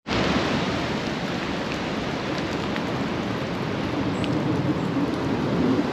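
Steady rain falling, heard as an even hiss with a low rumble underneath.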